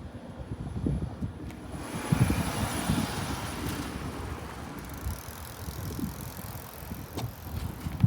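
A Shizuoka Railway electric train passing close by, its running noise swelling about two seconds in and then fading slowly. Wind buffets the microphone throughout.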